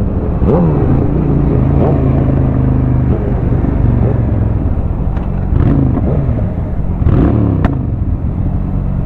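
Honda Shadow 750 V-twin engine under way, revving up and easing off several times as it shifts through the gears, with a few sharp pops from the exhaust on the revs.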